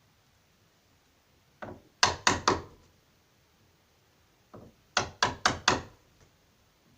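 A wood chisel being struck with a hammer, cutting the outline of the deadlock recess into the edge of a wooden door. There are two quick groups: a light tap then three sharp strikes about two seconds in, and a light tap then four sharp strikes about five seconds in.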